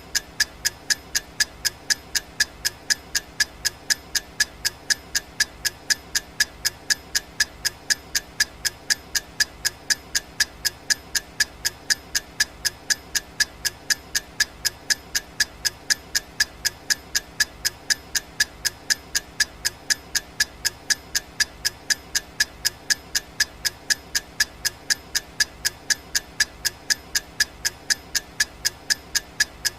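Clock ticking sound effect for a countdown timer: sharp, evenly spaced ticks, several a second, keeping a steady rhythm throughout.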